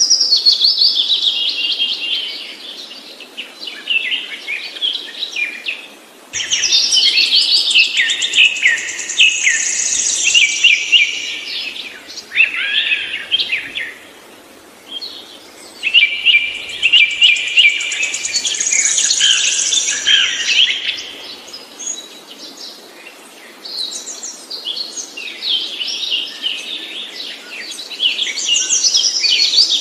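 Songbird singing in long bursts of rapid, high chirps and trills, with short pauses between the bursts.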